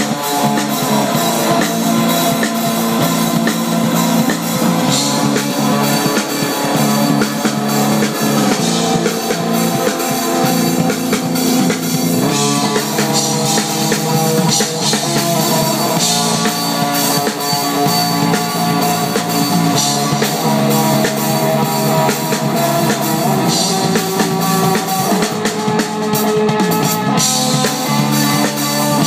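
A live band playing rock music, with a drum kit keeping a steady beat.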